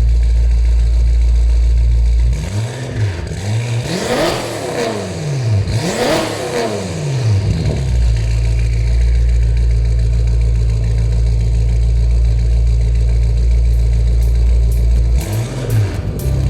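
2014 BMW M5's twin-turbo V8 through a custom straight-piped stainless steel exhaust with the back boxes removed: idling steadily, then revved twice, each rise falling back to idle, with one short blip near the end.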